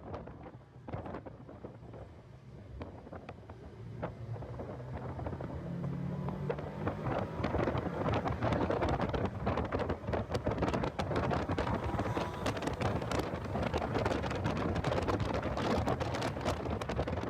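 Heavy wind buffeting on the in-car microphone, a rough crackling rumble that grows louder about a quarter of the way in, with the car's engine faintly heard rising in pitch under it as the car accelerates.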